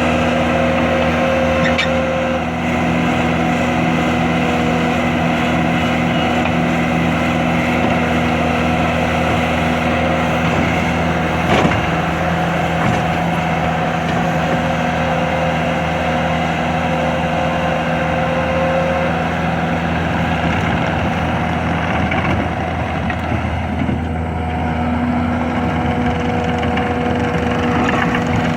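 Bobcat compact track loader's diesel engine running steadily, its pitch shifting slightly a few times, with one sharp knock about twelve seconds in.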